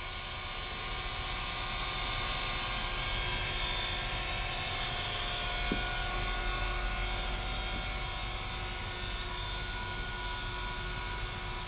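Taft-Peirce surface grinder running with its spindle turning, a steady machine hum and whine over a hiss. There is one faint click about six seconds in.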